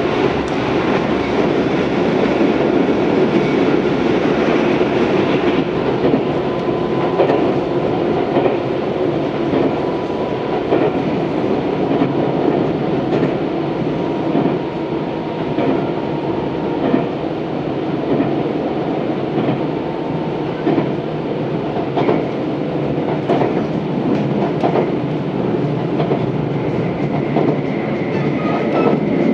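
Tobu 634 series electric train running at speed: a steady rumble of wheels on rail, with scattered clicks over the rail joints.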